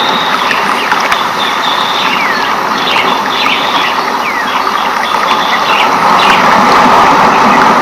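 Rainforest ambience: a steady loud hiss with many short bird chirps and falling whistles scattered over it.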